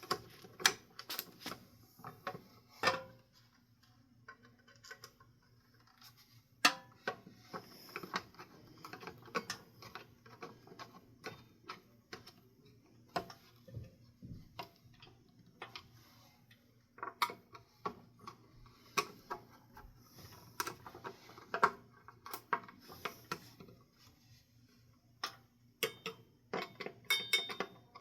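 Irregular metallic clicks, ticks and clinks of a flathead screwdriver working screws into a ceiling fan's blades and blade irons.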